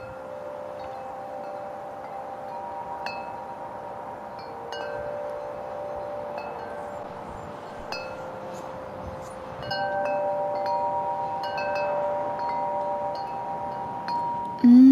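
Wind chimes ringing, irregular strikes setting off several overlapping, sustained tones, over a steady hiss of wind. The chimes get louder about two-thirds of the way through.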